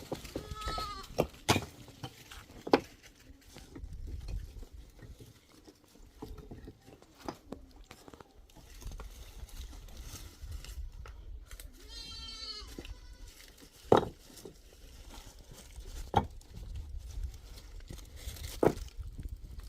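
A goat bleats twice, once about half a second in and again about twelve seconds in, with sharp knocks scattered between the calls.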